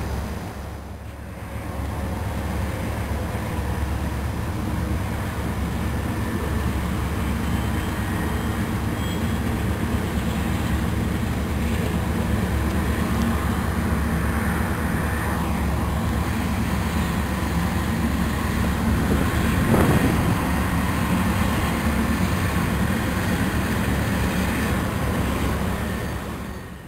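Diesel-hauled freight train crossing a steel truss bridge: a steady rumble of locomotives and wheels on the rails, with a brief louder knock about twenty seconds in.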